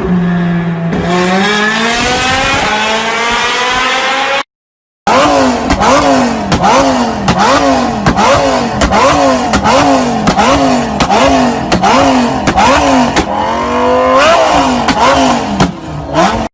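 Loud car exhaust: an engine idling, then revving up in one long rising pull. After a half-second silent gap, an engine is blipped over and over, about one and a half quick revs a second, ending in one bigger rev.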